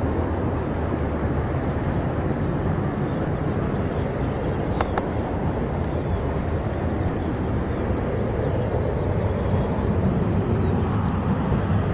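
Steady jet airliner engine noise at an airport, without a clear rise or fall, with short high bird chirps over it in the second half and a single click about five seconds in.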